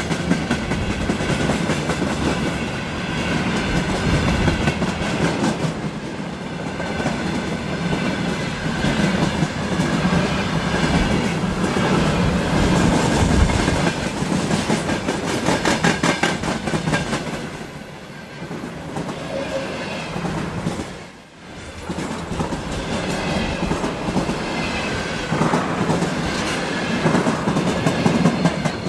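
A Russian freight train's wagons rolling past, their wheels clicking steadily over the rail joints.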